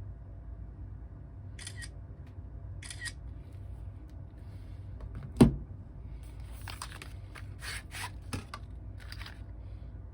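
Small hard objects handled on a workbench during a phone repair: two brief scrapes, one sharp click about five and a half seconds in, then a run of short clicks and scrapes near the end.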